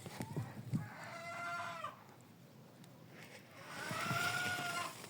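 A chicken gives two long drawn-out calls, one about a second in and a louder one near the end, each held at a steady pitch. A few faint clicks come near the start.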